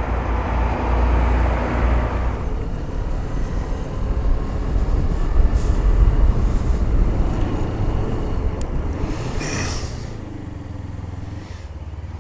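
Motorcycle running on the road, with wind rumbling heavily on the microphone; the level drops about ten seconds in as it eases off.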